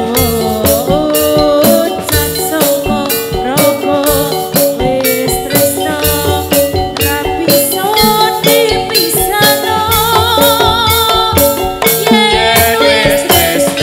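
Live Javanese folk music for a gedruk dance: a wavering, ornamented sung or played melody over steady drumming and a dense, even rattle of jingles.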